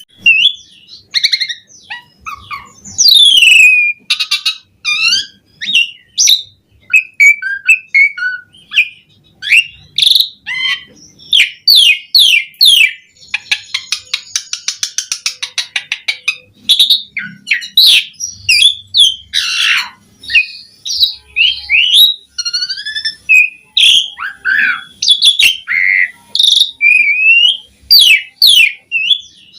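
Asian pied starling (jalak suren) singing in a busy, varied stream of whistles, rising and falling sweeps and chatters, with a fast buzzing rattle about halfway through. This is the full, energetic song with mixed-in imitated phrases that keepers call gacor full isian.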